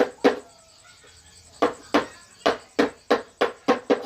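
A mallet striking a carving chisel in wood, in sharp knocks with a short ring. There are two knocks, a pause of about a second, then a run of knocks at about three a second that quickens near the end.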